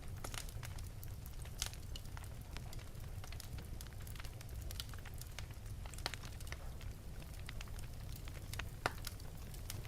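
Fire in an open fireplace crackling: irregular sharp pops over a steady low rumble, the loudest pops about six seconds in and near the end.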